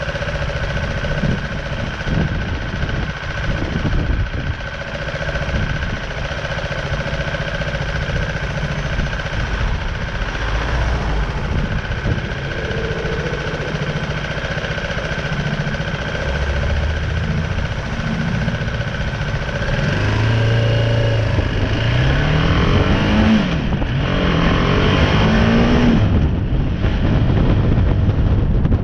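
BMW G310R's single-cylinder engine running at low revs, then about two-thirds of the way in it accelerates away, the pitch rising and dropping back at each of two upshifts, with wind noise on the microphone growing toward the end.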